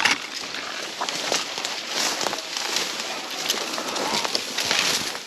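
Brush rustling, with twigs snapping in quick, irregular crackles, as someone pushes through willow cover.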